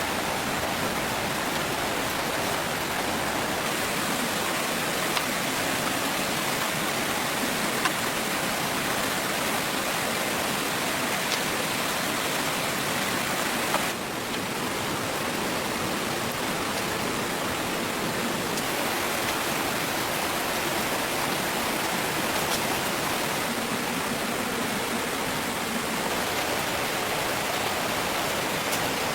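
Steady rushing noise of water, even throughout, with a few faint ticks. The level drops slightly about 14 seconds in.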